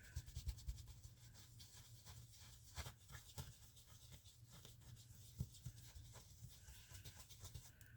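Faint, irregular soft taps and rubbing of an ink blending tool dabbing ink onto paper through a stencil.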